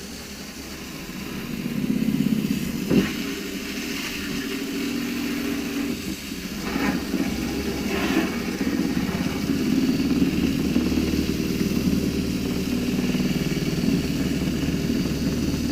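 Paint roller spun at full water pressure in a Storch Tornado roller cleaner, a steady whirr with water spraying, washing paint out of the roller's nap. The whirr builds up over the first couple of seconds, with a few short knocks along the way.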